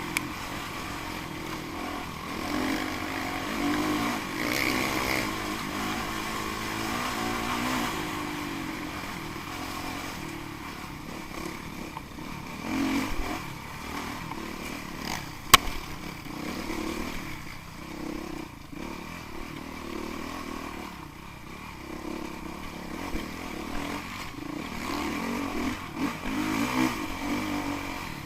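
Dirt bike engine running and revving up and down, with one sharp click about halfway through.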